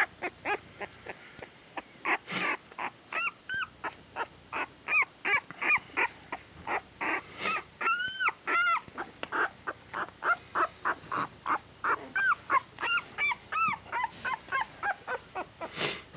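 Eight-day-old puppy squealing and whimpering, a rapid string of short high-pitched cries, two or three a second, many rising and falling in pitch: a newborn pup crying to get back to its mother.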